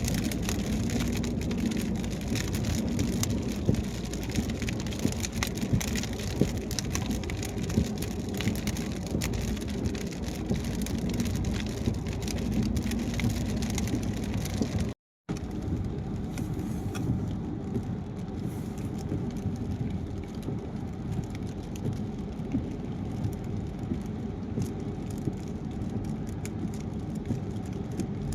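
A car driving on a wet highway in rain: a steady rush of tyre and road noise with many sharp raindrop ticks. About halfway the sound drops out for a split second, then resumes duller, with fewer ticks.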